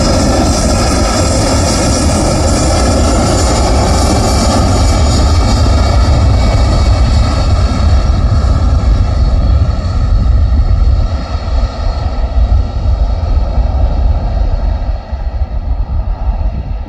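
Loud, steady engine noise from a passing airliner, with a deep rumble underneath. Its high hiss fades gradually as the aircraft moves away, and the sound eases off in the last few seconds.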